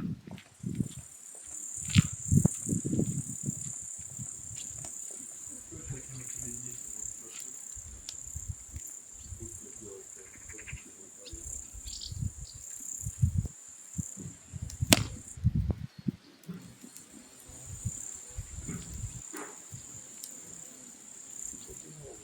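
An insect trilling in one steady high-pitched note, breaking off briefly a little after the middle, over scattered clicks and low thuds, with one sharp crack about fifteen seconds in.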